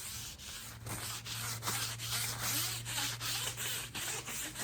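Quick repeated wiping strokes rubbing along the Passap E6000 knitting machine's metal needle bed as spray cleaner and grime are scrubbed off, about three strokes a second.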